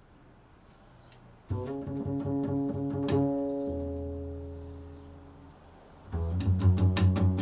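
Improvised music on a plucked string instrument: a quick run of low notes about a second and a half in that rings on and slowly fades, then a second run of repeated notes near the end.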